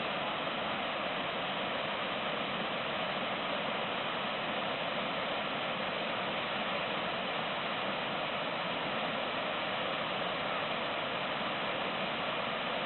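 A river waterfall giving a steady, unbroken rush of falling water.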